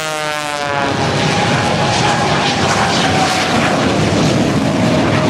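A stunt plane's propeller engine passing low, its note falling in pitch for about the first second, then a loud, steady jet engine roar with a high whine from the jet truck on full power.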